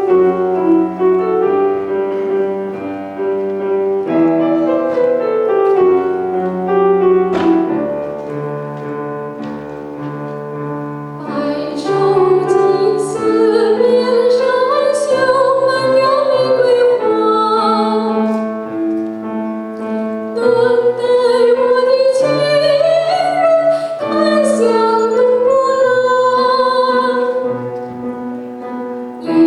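Classical vocal piece with piano accompaniment: the piano plays alone at first, and about a third of the way in a trained solo voice enters, singing with vibrato over the piano.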